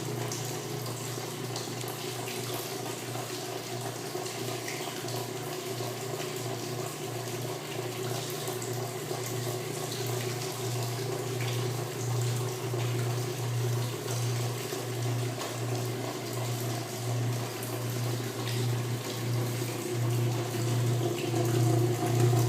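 Repaired washing machine draining: the drain pump hums steadily as water gushes out of the tub, with no grinding or rattling, sounding like a normal washer.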